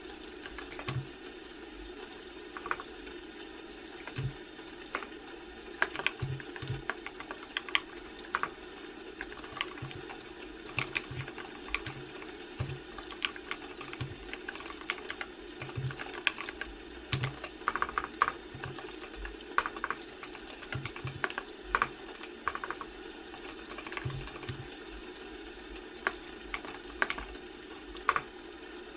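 Typing on a computer keyboard: irregular runs of keystroke clicks with short pauses and a few harder taps, over a steady low background hum.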